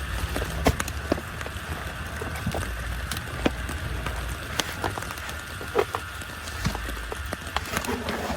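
Heavy rain falling, with single drops tapping sharply and irregularly over a steady hiss and a low rumble.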